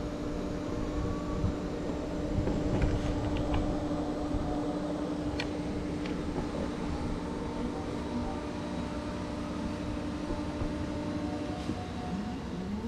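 Steady mechanical hum with a low droning tone that stops near the end, and a few faint ticks.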